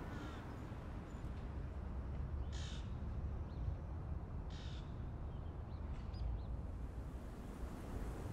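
A bird gives two harsh calls about two seconds apart, with a few faint chirps after them, over a steady low outdoor rumble.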